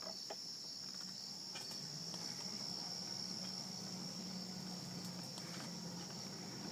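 A steady evening chorus of crickets and other night insects: a constant high-pitched trill. A low, steady motor hum runs underneath.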